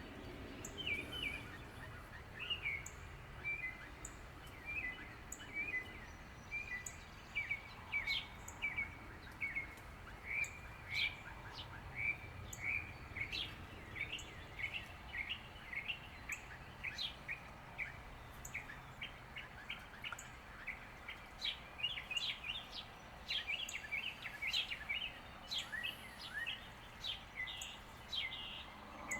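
Small songbirds chirping and calling, many short high chirps in quick succession, over a steady low background hum.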